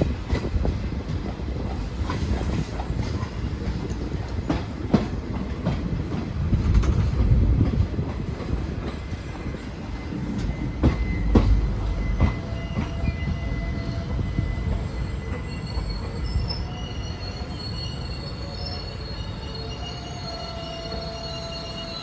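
Train running on the rails with a low rumble and irregular clicks and knocks from the wheels over rail joints. In the second half, thin high-pitched wheel squeal comes in while the running noise slowly gets quieter.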